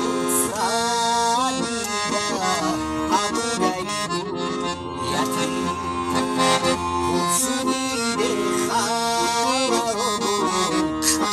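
Accordion music: a melody with bending, ornamented notes over held lower notes, played continuously.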